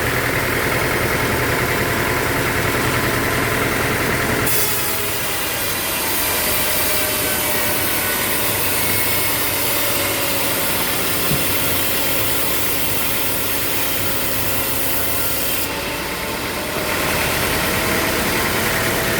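Engine-driven sawmill machinery running steadily, with a saw working through wood. The sound changes abruptly about four seconds in and again near the end, with a faint whine in the middle stretch.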